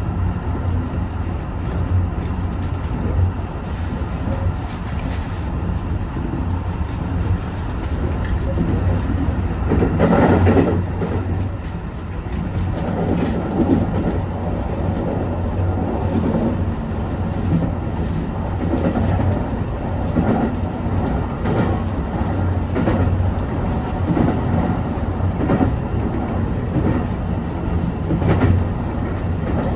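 Senseki-Tōhoku Line train running along the line: a steady low rumble with repeated clicks of the wheels over rail joints, swelling louder for a moment about ten seconds in.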